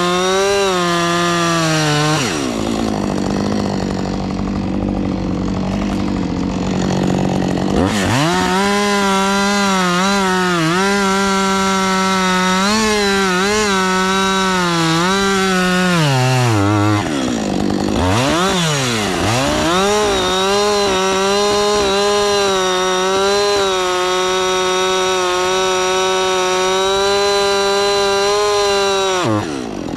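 An engine held at high revs that twice drops to a low idle and revs back up, then drops again at the very end.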